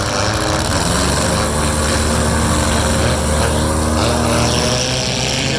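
Several four-cylinder demolition derby cars' engines revving hard together as the heat starts, their pitches rising and falling over one another.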